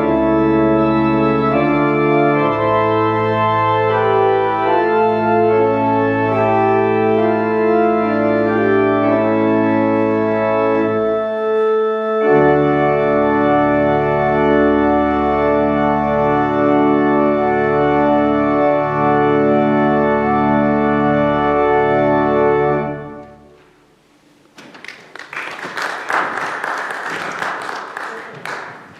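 Organ playing the closing music in sustained full chords, with a brief break about twelve seconds in, until it stops near the end. A few seconds of dense, crackling noise follow.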